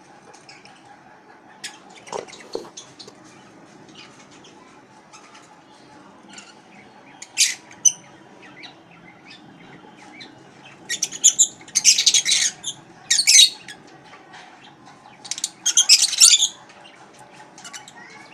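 Caged lovebirds: scattered small clicks and wing flutters, then in the second half several loud bursts of high-pitched screeching chatter.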